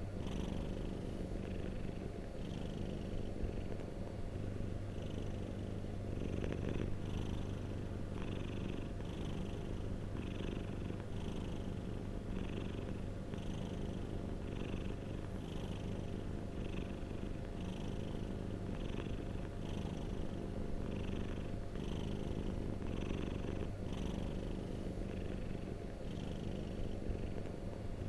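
Domestic cat purring steadily and close, a continuous low rumble with a soft pulse roughly once a second.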